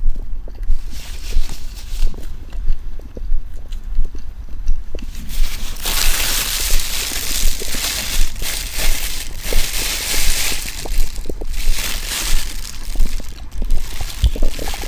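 Close-miked chewing of a soft bun: low, regular thuds about one and a half a second, with a rustling hiss joining from about six seconds in.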